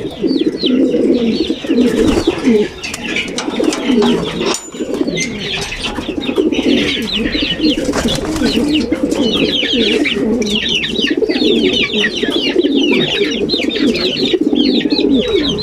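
A flock of racing pigeons cooing continuously, many birds overlapping, with quick high falling chirps over the cooing.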